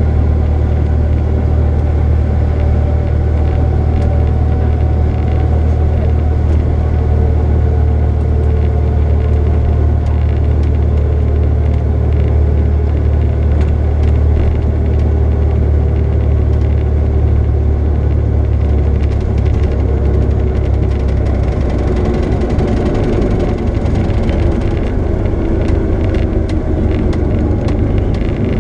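Steady, loud low engine rumble heard from inside a vehicle, with a fainter tone sliding slowly down in pitch and dropping further near the end as the engine eases off.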